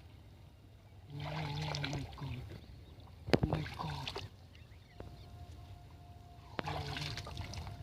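Water sloshing and trickling as hands work in shallow water, with two sharp knocks and a couple of short low voice sounds.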